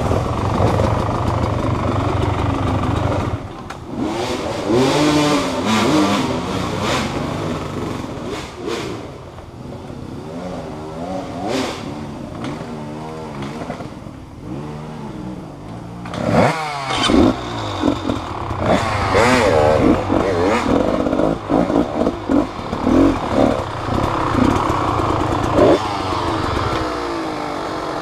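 Motorcycle engine revving up and down, its pitch rising and falling repeatedly. It eases off through the middle, then gives sharper, louder bursts of throttle in the second half.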